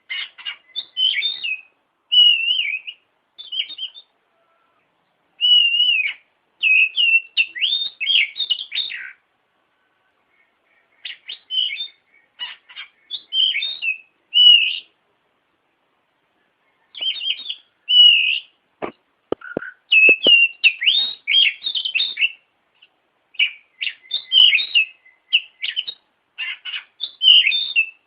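Oriental magpie-robin singing: bouts of quick, varied high whistles and chirps that bend up and down in pitch, broken by short pauses. A few sharp clicks come about two-thirds of the way through.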